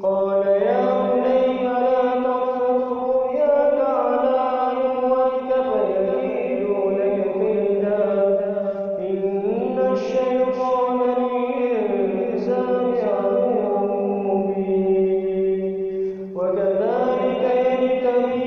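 A man reciting the Quran in the melodic, chanted tajweed style, unaccompanied. He holds long notes that slide up and down between pitches, with a short breath pause about 16 seconds in.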